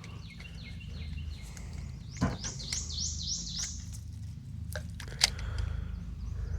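A bird singing two runs of short, quick down-slurred notes, about four or five a second, over a low steady hum. A few sharp clicks, the loudest near the end.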